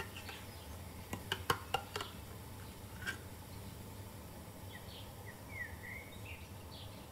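A few light clicks and taps about a second in, then faint bird chirps a few times in the background.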